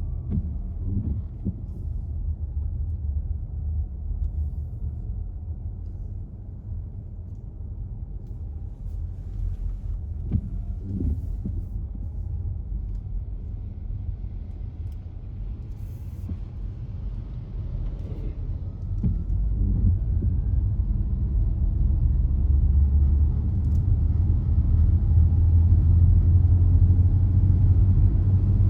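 A car driving: a steady low rumble of engine and tyres on the road, getting louder about 20 seconds in, with a faint whine that slides slowly up and down in pitch.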